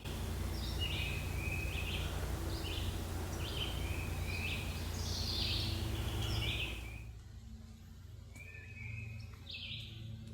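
Wild birds singing in the woods in the morning: many short, repeated chirps. A steady hiss sits under them and drops away about seven seconds in.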